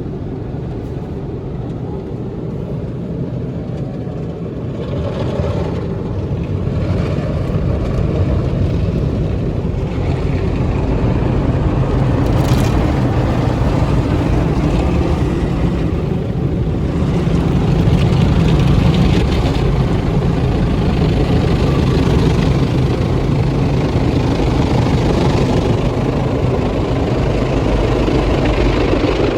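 Car wash equipment running with a steady low hum and a rushing noise that swells and fades, getting louder over the first ten seconds or so.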